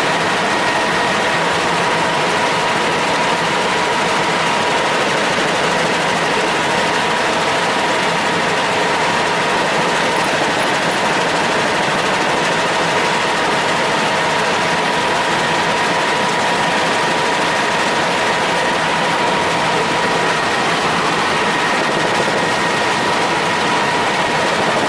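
Helicopter in flight: a steady, loud turbine and rotor noise with a constant high whine running through it.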